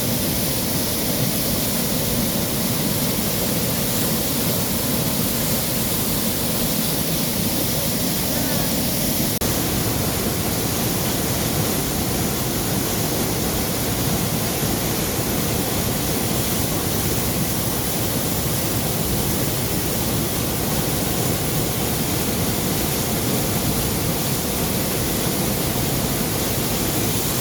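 Steady rushing water, a waterfall or stream running with an even, unbroken noise.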